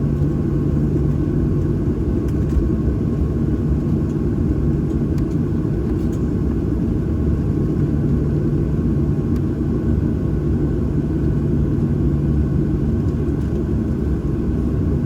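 Steady low rumble of a Boeing 737-800's CFM56-7B jet engines idling, heard inside the passenger cabin, with a steady low hum running under it.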